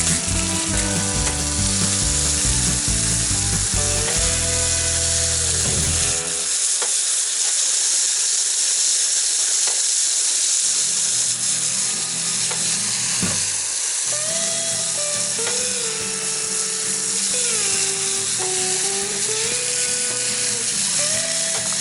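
A CAT303 mini excavator's diesel engine and hydraulics running under working load, with a steady loud hiss. The pitch of the whine repeatedly sags and climbs again as the hydraulics take and release load.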